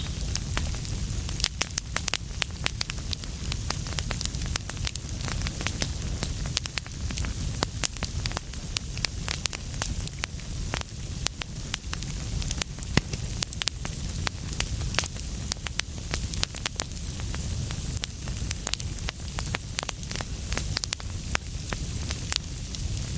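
Fire in a fireplace crackling: frequent irregular sharp pops and snaps over a steady low rumble of the flames.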